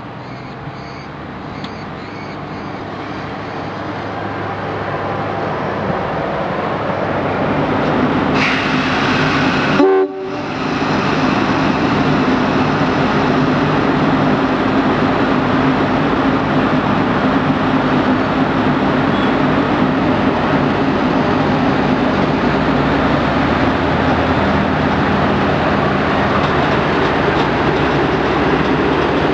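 A train approaching and growing steadily louder. There is a brief horn blast about eight and a half seconds in, then the train passes close by, loud and steady, with a low engine drone under the wheel noise.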